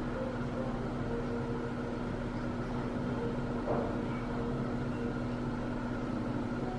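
Steady low mechanical hum of a restaurant room, with one brief faint click a little past the middle.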